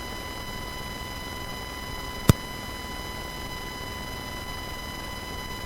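Steady electrical hiss and a high steady whine of evenly spaced tones coming through a mixing board and microphone line, with one sharp click about two seconds in. It is the fault noise that the broadcaster blames on her board or microphone.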